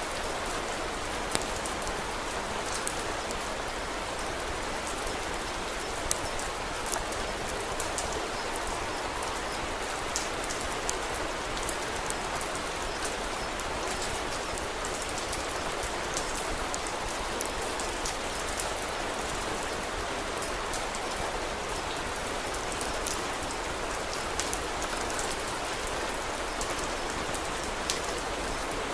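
Steady rain falling, with scattered sharp crackles and pops from a wood fire at irregular moments.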